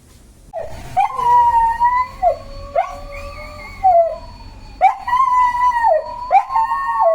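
Pet dog howling: long, held howls that start about half a second in, breaking off and dipping in pitch every second or two before rising again.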